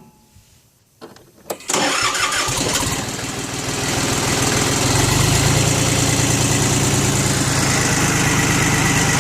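Yanmar FX18D's three-cylinder diesel engine being started: a couple of clicks, then it cranks and catches about two seconds in and settles into a steady idle.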